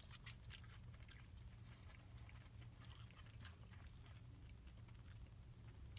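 Faint chewing of chicken nuggets, with scattered small wet mouth clicks, over a steady low hum.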